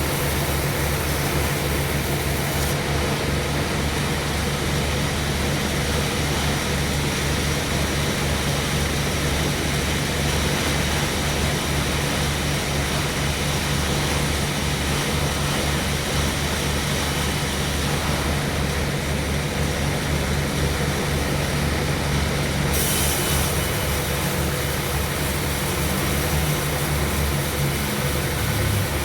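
Sawmill machinery running steadily: a low engine hum under a continuous hiss. The highest part of the hiss drops away a few seconds in and comes back near the end.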